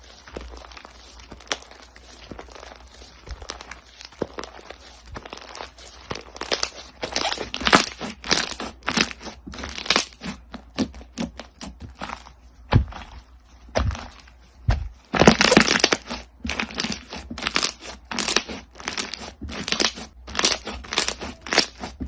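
Crunchy slime being squeezed and pressed by hand, crackling in dense runs of sharp pops. It starts soft and grows louder and busier, with its loudest crunching burst about two-thirds of the way through.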